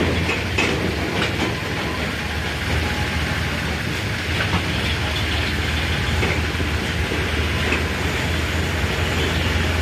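Diesel tractor engine running steadily with a constant low hum, with rattling and a few knocks over it.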